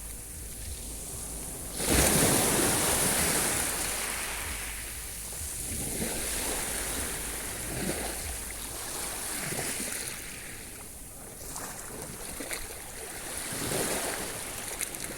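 Sea waves breaking on the shore: one large wave washes in about two seconds in, followed by several smaller ones.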